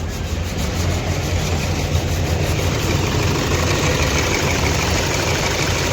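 Toyota Fortuner diesel engine idling roughly, with an uneven beat and knocking: the hot engine is misfiring, as if one injector were not working.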